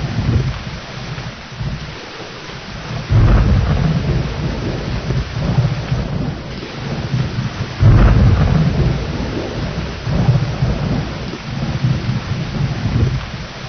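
Steady heavy rain with rolling thunder: two thunder rumbles break in suddenly, about three seconds in and again about eight seconds in, each rumbling on for a few seconds over the rain.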